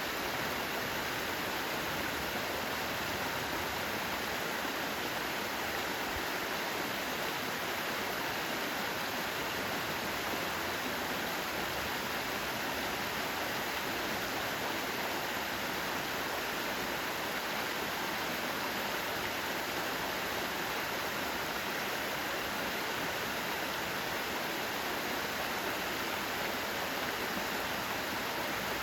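Mountain valley stream flowing: a steady, unbroken rush of running water.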